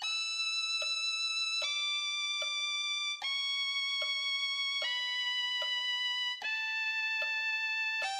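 Violin playing a slow descending B minor scale, stepping down one note about every second and a half, each note held evenly. A light click sounds twice per note.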